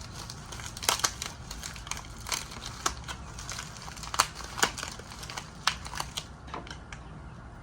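A package being opened: irregular crinkles, crackles and sharp snaps of packaging being torn and cut apart.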